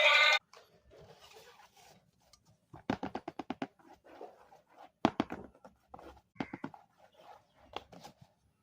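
A music clip with singing cuts off suddenly about half a second in. Then come scattered clicks and taps from hands handling small objects, with a quick run of about seven clicks partway through and a single sharper click a little later.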